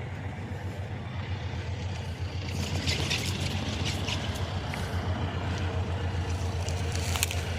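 Diesel freight-train locomotive running with a steady, pulsing low rumble that grows louder about two and a half seconds in as it approaches, with a few brief high-pitched screeches over it.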